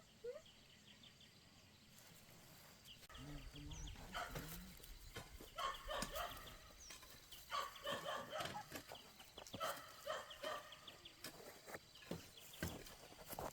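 Puppies whining and yipping in quick, repeated little cries, fitfully at first and then almost without pause from about three seconds in.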